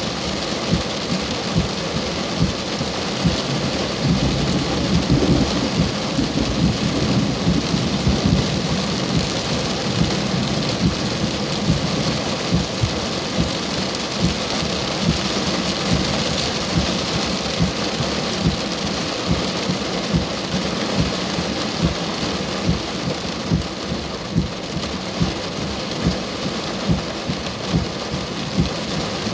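Heavy rain falling steadily during a thunderstorm, with frequent single drops striking close to the microphone. A low rumble of thunder swells from about four seconds in and fades a few seconds later.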